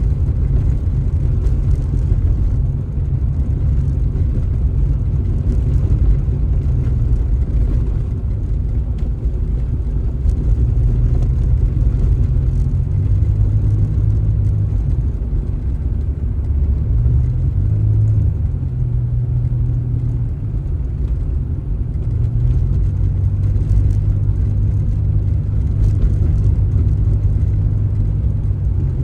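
Car driving: a steady low engine and road rumble, its engine pitch rising and falling a few times.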